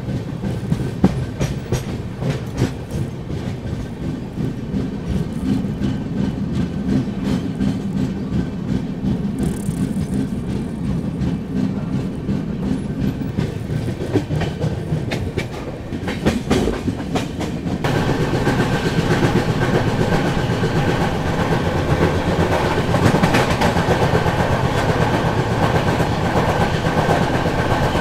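Mandovi Express passenger coaches running along the track, heard from an open coach door: a steady rumble of the wheels with repeated clicks. About eighteen seconds in, the sound turns suddenly louder and brighter.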